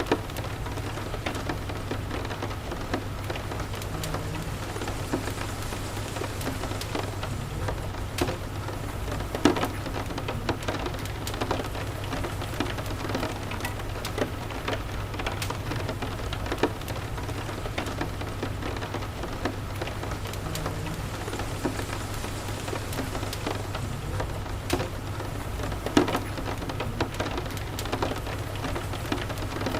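Steady rain with a crackling wood fire: an even hiss over a low steady rumble, scattered with small pops and clicks. Two louder pops come about ten seconds in and a few seconds before the end.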